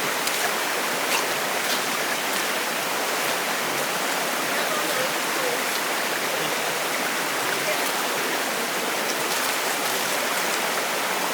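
Steady rush of flowing water, even and unbroken, with a few faint ticks.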